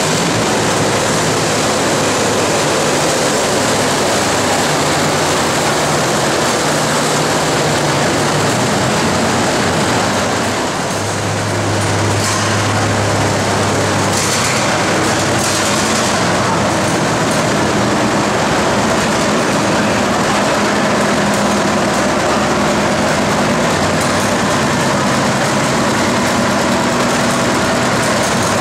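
Antique farm tractor engine running hard under load, pulling a weight sled, with a steady loud din and a brief drop in level about ten seconds in.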